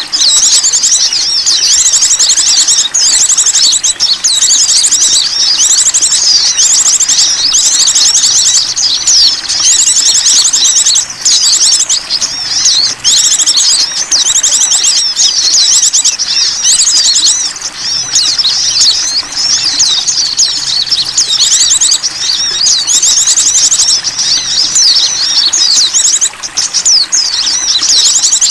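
Dense chorus of many small songbirds chirping and trilling rapidly and without pause, high-pitched and loud: a bird-lure recording made to draw small wild birds in.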